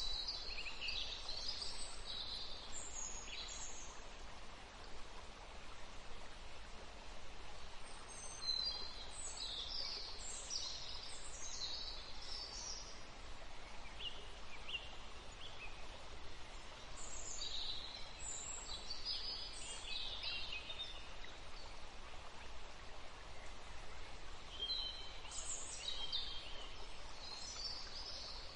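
Small birds chirping in short, high flurries every several seconds over a steady outdoor hiss.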